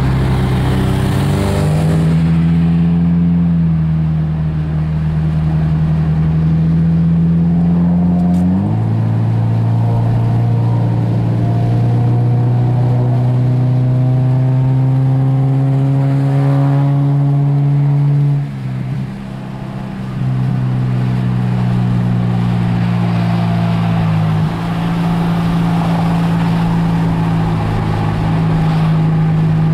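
Car engine droning inside the cabin while cruising on a highway, its pitch creeping slowly upward under acceleration. It breaks off and resets several times as the driver shifts gear or lifts off the throttle, most clearly about two-thirds through with a brief dip in loudness.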